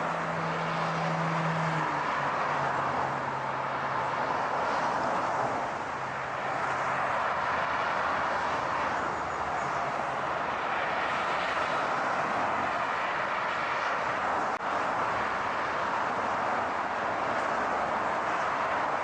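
Steady rushing car noise with a low engine drone that drops a step in pitch about two seconds in and fades away, and a single click about three-quarters of the way through.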